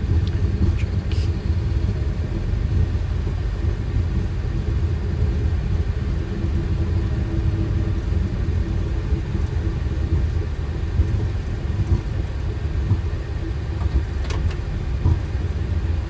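Steady low rumble on a Boeing 737 flight deck while it taxis after landing, with the engines at idle and the aircraft rolling along the taxiway. A faint steady hum sits over it, and there is one brief click near the end.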